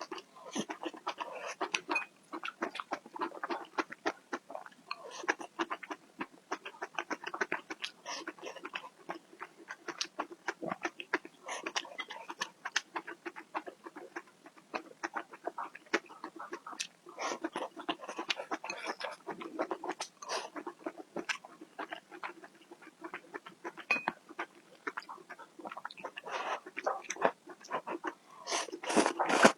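Close-miked eating sounds: rapid, irregular wet chewing and lip-smacking of someone eating food.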